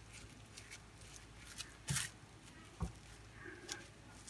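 Quiet handling sounds of mashed potato being pressed and spread thin on plastic cling film, with three soft knocks, the loudest about halfway through.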